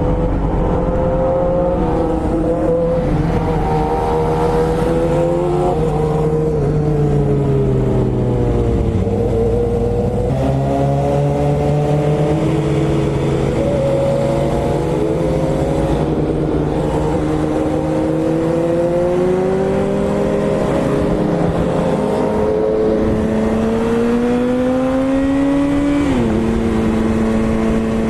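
BMW S1000RR inline-four motorcycle engine under way, its pitch climbing and falling with the throttle through the gears, with a sudden drop in pitch near the end at a gear change.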